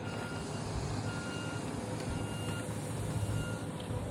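A vehicle's reversing alarm beeping about once a second, over the low rumble of a running engine.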